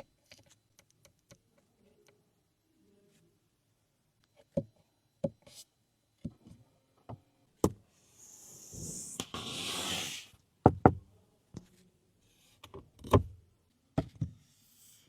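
Scattered clicks and knocks of car interior fittings being handled inside a car cabin. About eight seconds in there is a rushing noise lasting about two seconds, followed by a few sharper knocks.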